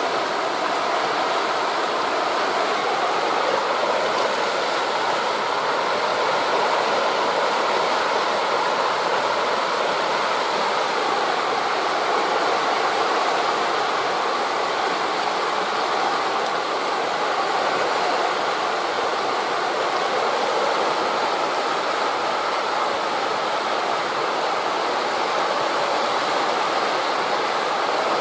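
Steady, even rushing of wind through tree leaves blended with distant surf, with no distinct wave crashes or other events standing out.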